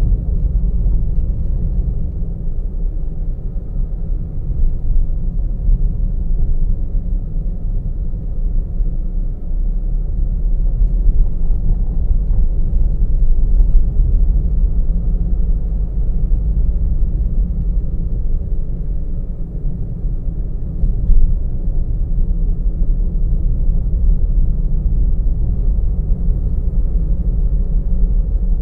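Car driving steadily, with a low rumble of road and engine noise heard from inside the vehicle.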